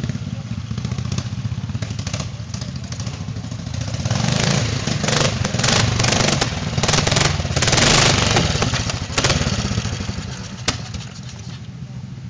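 Classic trials motorcycle engine pulling at low revs as the bike climbs over rocks. The throttle is worked up and down, loudest about eight seconds in, with sharp clacks of the machine on stone. The engine eases back for the last couple of seconds.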